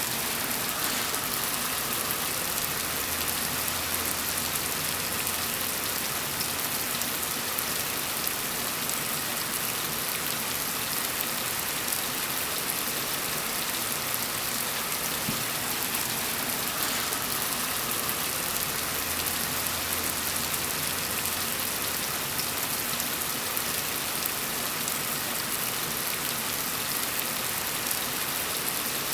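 Steady rain falling, an even hiss of many drops with no breaks or thunder.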